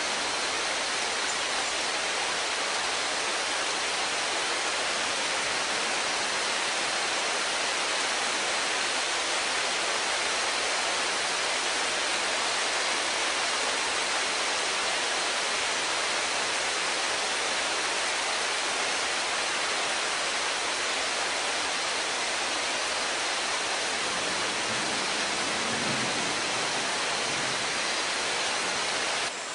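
Heavy rain pouring steadily on the rainforest, an even rushing hiss that drops off suddenly near the end.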